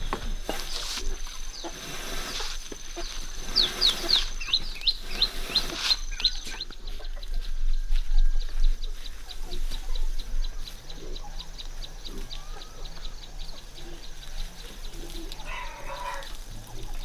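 Birds chirping in quick runs of short, high, falling chirps, with a faster steady run of chirps in the middle.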